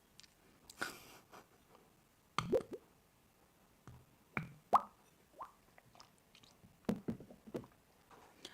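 Close-miked wet mouth sounds of someone eating: scattered smacks, pops and small clicks, the loudest about two and a half and four and a half seconds in.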